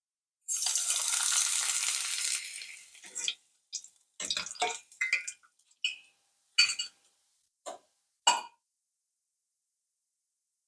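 Kitchen sounds: a hiss lasting a couple of seconds that fades out, then a string of short clinks and knocks of utensils against pans or dishes.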